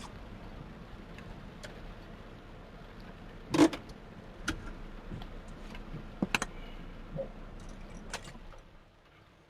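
Steady car running noise during heavy rain, with several sharp clicks and knocks. The loudest knock comes about three and a half seconds in. The noise falls away near the end.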